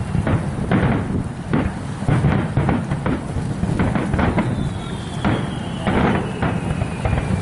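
Fireworks display: a continuous low rumble of bursts broken by many irregular sharp bangs. About halfway through, a whistling shell sounds, falling slowly in pitch until near the end.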